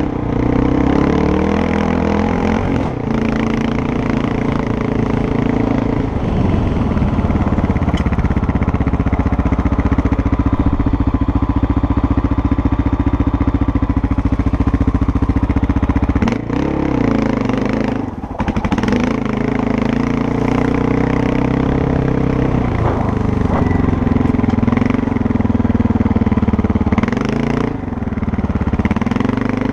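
Motorcycle engine running under way, its pitch rising and falling with the throttle, holding steady for a stretch in the middle, with brief throttle cuts about sixteen and eighteen seconds in and again near the end.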